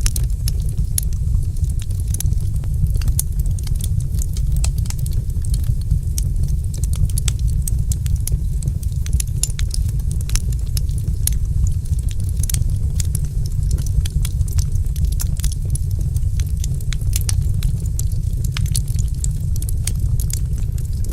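Fire in a fireplace crackling, with frequent quick, sharp pops and snaps over a steady low rumble.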